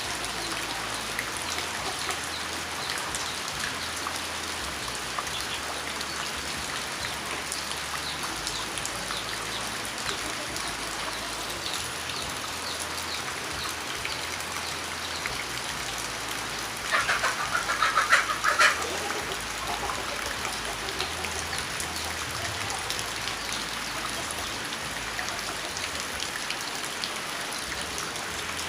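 Steady rain falling, with many individual drops ticking through a constant hiss. About two-thirds of the way through, a louder sound of rapid short pulses cuts in for about two seconds.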